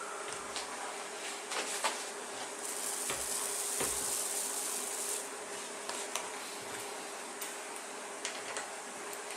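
Steady buzzing hum with a constant tone, with scattered small clicks and taps; a brighter hiss comes in for about two seconds in the middle.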